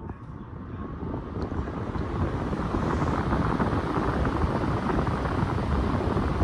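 Vintage Emerson electric table fan starting up on its high setting: the motor and blades spin up and the rush of air grows louder over the first couple of seconds, then holds steady at full speed, the air stream buffeting the microphone.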